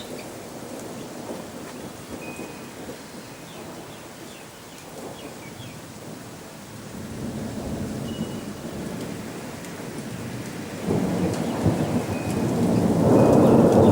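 Thunder rolling over steady rain. It grows louder from about seven seconds in and swells into a loud rumbling peak near the end.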